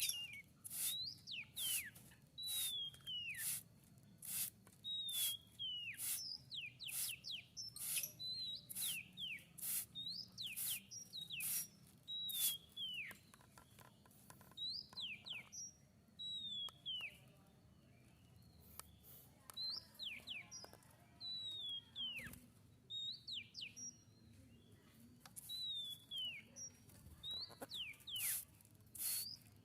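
A tledekan laut songbird singing: quick sharp high ticks mixed with short whistled notes that slur downward, in repeated phrases with a brief lull about halfway through.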